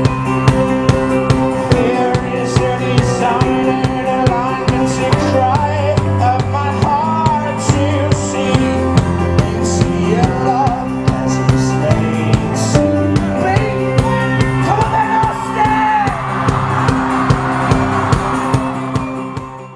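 Folk-rock band playing live: a steady kick-drum beat, sustained strummed chords and a lead voice singing. The music cuts off abruptly at the very end.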